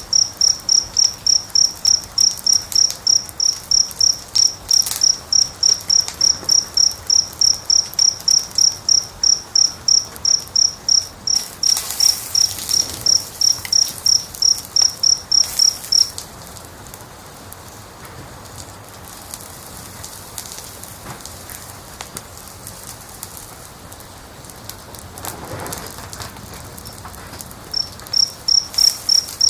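A cricket chirping steadily at about three chirps a second; it stops about halfway through and starts again near the end. Under it, a fire crackles with scattered small pops.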